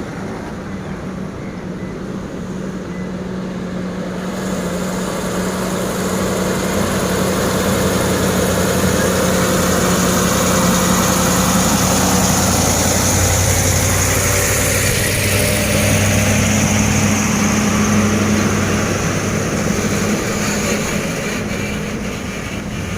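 Heavy truck engine running with road noise. It grows louder over the first several seconds and then holds steady, and the engine's note shifts about halfway through.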